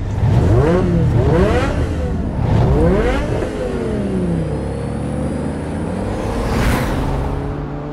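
Car engine accelerating hard through several upshifts, its pitch climbing and dropping back with each shift. It then winds down and settles to a steady drone, with a short rush of noise about seven seconds in.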